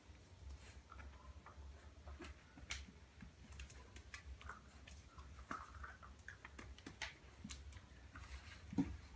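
Two-month-old Labrador puppy moving about, with faint irregular clicks and taps over a low steady hum, and one louder soft thump near the end.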